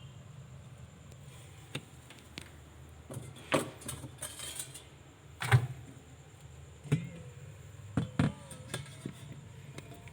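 Scattered sharp knocks and clicks of objects being handled, the loudest about three and a half and five and a half seconds in, over a steady low hum.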